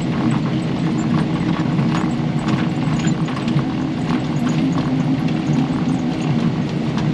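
Kubota KX080 excavator's diesel engine running steadily under work, with scattered short clicks and knocks over it.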